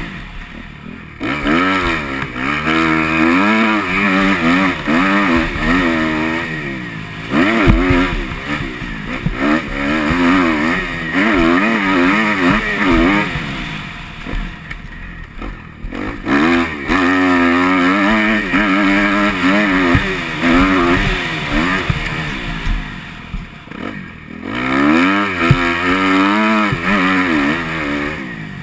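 Motocross bike engine being ridden hard round a sand track: it revs up and falls back again and again through the gears, with the throttle shut off briefly about a second in, around the middle and near the end.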